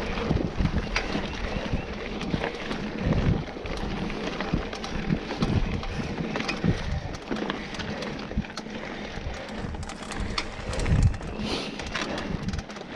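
Mountain bike rolling over rough singletrack, the tyres and frame rattling with irregular knocks and thumps over roots and rocks, a couple of louder hits about three seconds in and near the end.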